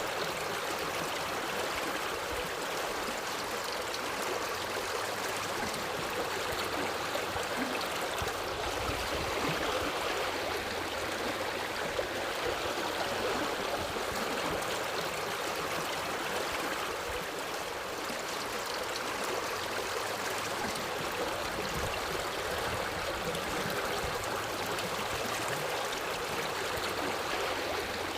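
Forest river or stream flowing over rocks: a steady rush of water with gurgling.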